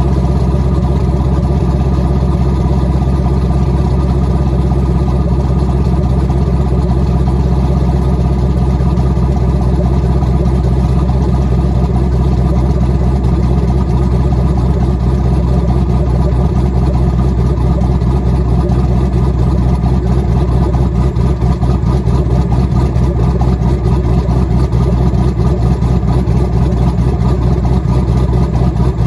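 Twin-turbocharged LS2 V8 with a big aftermarket cam idling steadily after a cold start. It has the choppy, uneven lope of a cammed engine.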